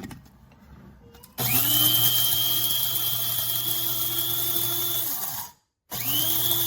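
Kaffe electric blade coffee grinder's motor running: it spins up quickly to a steady whine about a second and a half in and runs for about four seconds before cutting off. Near the end it starts again with a second quick spin-up.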